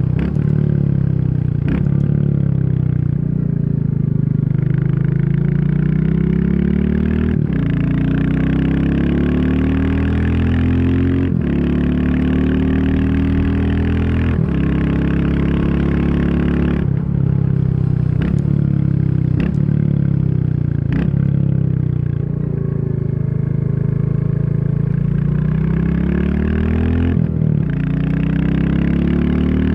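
Royal Enfield Classic 350 Reborn's single-cylinder engine under way, pulling up through the gears: its pitch climbs, drops suddenly at each gear change, and climbs again, with stretches of easing off where the pitch falls.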